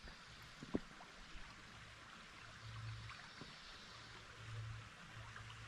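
Faint water trickling and lapping around a kayak on a shallow creek, with one soft knock about three quarters of a second in.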